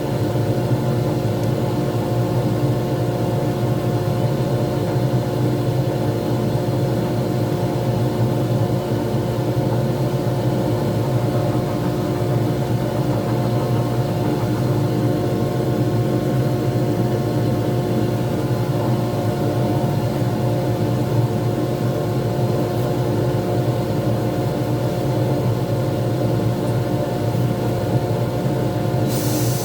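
Wood lathe running steadily, its motor giving an even hum with a few fixed tones while it spins a pen blank. A rubbing, hissy sound starts right at the end.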